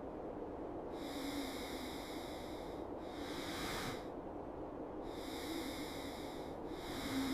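Soft, steady hiss of wind and falling snow in a cedar forest, swelling twice and easing between, with a few faint low calls underneath.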